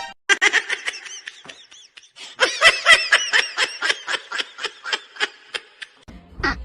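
A person laughing hard in high-pitched, rapid ha-ha pulses, in two bouts: a short one at the start and a longer, louder one from about two seconds in.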